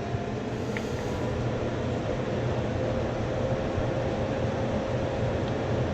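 Heating system equipment running steadily: a low mechanical hum with a rush of air from the blower, and a faint tone that creeps slowly upward in pitch.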